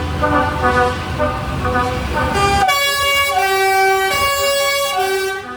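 Vehicle horn sounding a run of pitched notes over a low engine rumble. From about two and a half seconds in, it alternates between a high and a low note, like a two-tone siren.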